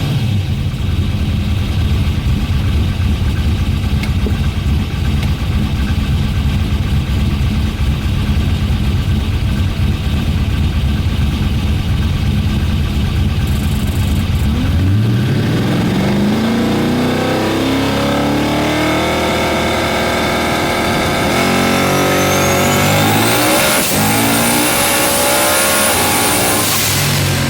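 Ford XW Falcon drag car's engine running with a steady heavy rumble, then from about halfway revving hard in several rising sweeps, with a high whine climbing near the end.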